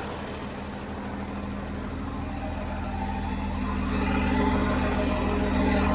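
John Deere 6081H six-cylinder diesel engine running steadily, and running well. It grows gradually louder over the few seconds.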